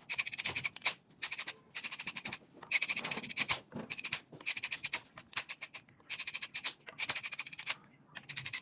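A ratchet wrench being worked in short strokes: bursts of rapid, evenly spaced clicks with brief pauses between them, as a transmission drain or fill plug is run in or out.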